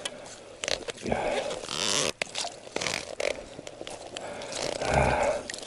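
Gloved hands hauling a frozen fishing line up through an ice hole: irregular rasping, crackling and scraping strokes mixed with clothing rustle. A short low grunt-like voice sound comes near the end.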